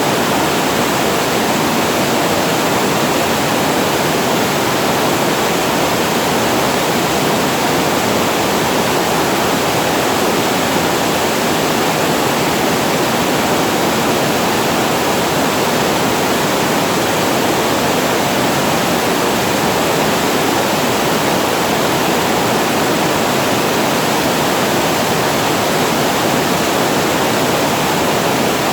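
Water pouring over a weir spillway, a steady, loud, unbroken rush of falling water.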